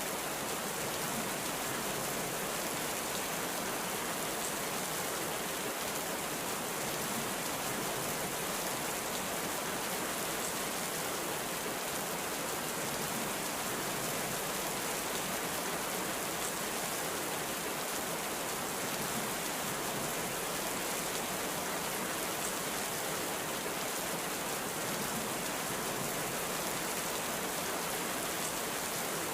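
Heavy rain falling steadily, an even hiss of many drops without a break, with no thunder.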